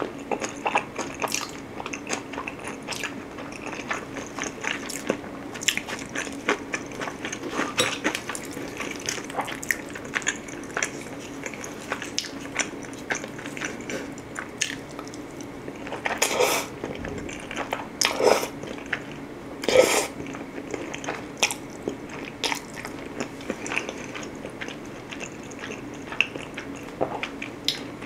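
Close-miked chewing and wet mouth sounds of a person eating pizza and cheese-baked spaghetti, full of small clicks, smacks and crunches. A few louder, longer mouth sounds come between about 16 and 20 seconds in.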